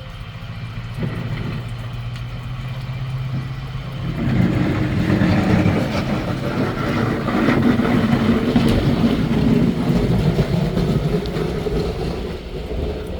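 A vehicle engine running with a steady low hum, turning louder and rougher about four seconds in and easing off near the end.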